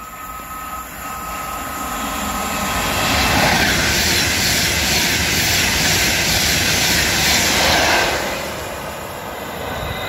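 Express passenger train passing through the station at speed: a rushing roar of wheels on rail and displaced air that builds over the first few seconds, is loudest for about five seconds as the carriages go by, then fades away.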